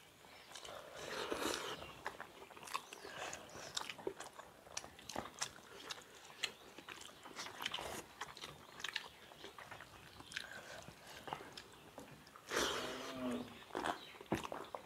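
Close-miked mukbang eating sounds of two people chewing fish curry and rice with their mouths open, a steady run of wet smacking clicks. About twelve and a half seconds in there is a louder, noisier rush lasting about a second.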